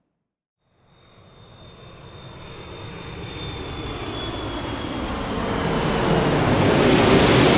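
Airplane flying over: the engine noise swells from silence to a loud peak near the end, with a high whine and a lower tone that drops in pitch as it passes.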